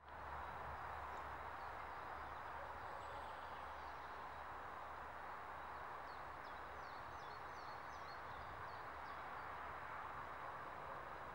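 Faint outdoor ambience: a steady low hiss, with a small bird's quick high chirps repeated several times between about six and nine seconds in.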